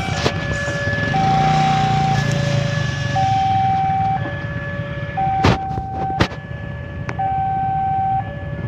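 Electronic two-tone warning alternating between a higher and a lower tone, each held about a second, over a steady low rumble of a diesel engine. Two sharp knocks come about halfway through.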